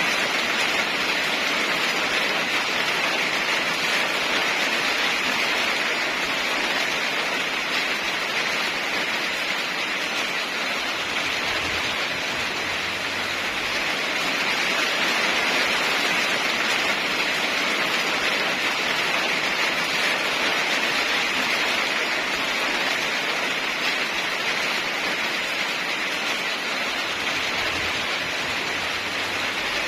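Steady heavy rainfall: an even, unbroken hiss that eases slightly and swells again, with no thunder.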